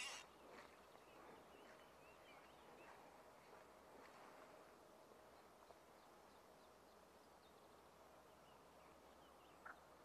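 Near silence outdoors, with faint bird chirps scattered through it and a faint steady hum underneath.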